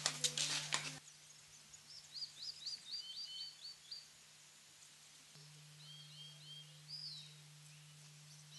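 A bird calling: a quick run of about eight short, high, falling whistled notes, then a few seconds later a shorter run of similar notes, over faint steady hiss and a low hum.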